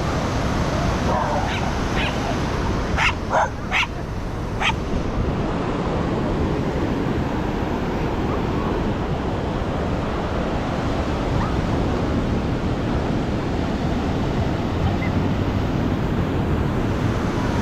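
A dog barks and yips about six times in quick succession, a second or two in, over steady ocean surf.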